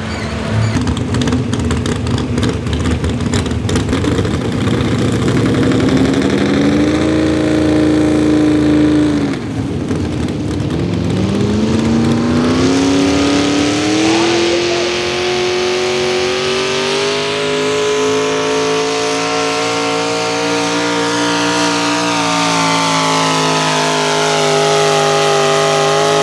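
Small-block V8 engine of a modified pulling tractor running at high revs under load as it pulls the sled. The pitch climbs, drops sharply about nine seconds in, climbs again and holds high, easing slightly before it cuts off suddenly at the end.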